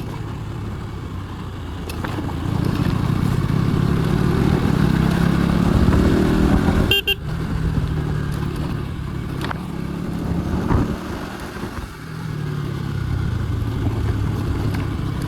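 KTM motorcycle engine running while riding, its pitch climbing as it pulls, with a sudden brief break about seven seconds in and a dip near the end before it picks up again.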